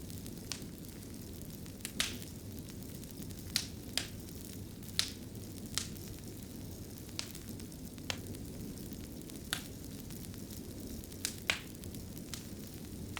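Wood fire burning in a fireplace: a steady low rumble of the flames with sharp crackles and pops at irregular intervals, about a dozen of them.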